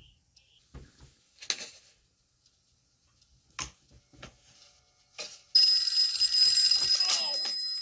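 A few scattered knocks and clicks, then about five and a half seconds in a telephone starts ringing loudly, a steady high ring that eases off slightly near the end.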